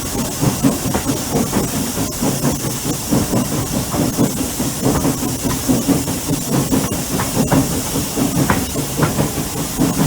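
Steam train running: a steady hiss of steam over a continuous low rumble.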